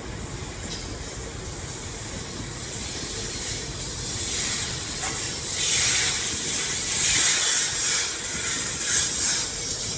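Freight train of covered hopper wagons rolling past, the wheels on the rails giving a high hissing that builds to its loudest in the latter half and eases off near the end.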